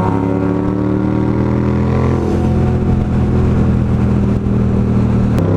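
Yamaha FZ-07 parallel-twin engine pulling under acceleration, its pitch climbing steadily and dropping at an upshift about two seconds in and again near the end.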